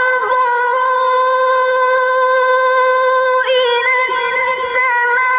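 A single voice in melodic Quran recitation, holding one long drawn-out note with short ornamental pitch turns about halfway through and near the end.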